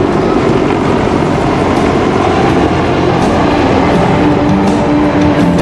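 Loud, steady engine noise from military aircraft, with a few faint held tones underneath.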